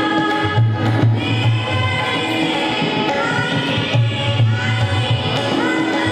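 A woman singing a melody with gliding, held notes, accompanied by tabla.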